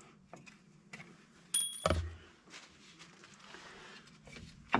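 Light metallic clinks of drum brake parts being worked loose, with one sharp ringing metal clank and a thud about one and a half seconds in, as the brake shoes and springs come off a 1955 Ford Customline's front brake.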